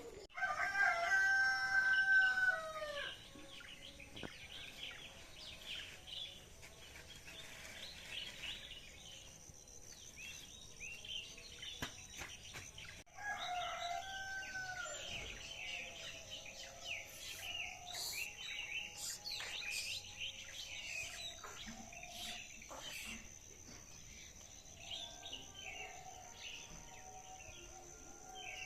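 A rooster crowing: one long crow right at the start, then a shorter second crow about thirteen seconds in, over constant chirping of small songbirds.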